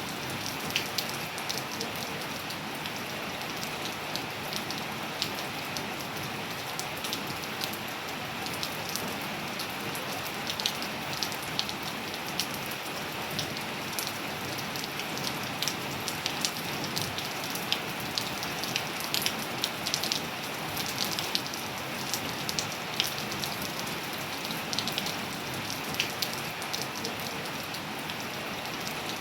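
Steady rain with a constant hiss, and frequent close, sharp drops tapping irregularly on a hard surface.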